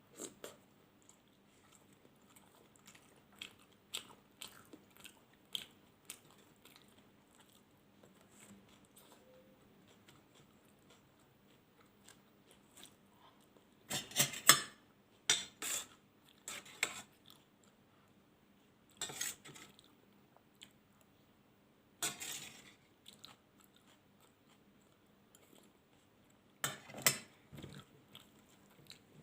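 Close-up eating sounds: chewing and biting, with small mouth clicks, then several louder crunchy or clattering bursts around the middle and near the end.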